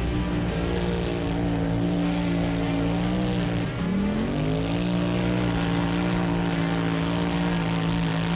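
Side-by-side or ATV engine held at high revs, pulling hard. About four seconds in the pitch dips briefly, then climbs back and holds steady.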